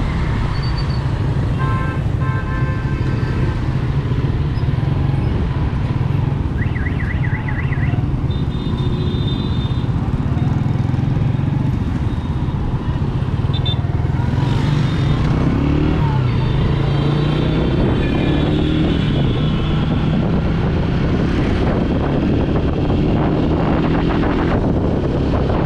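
Yamaha YBR 125G's single-cylinder four-stroke engine running steadily while riding on the road, with the noise of passing traffic. Short horn tones sound several times.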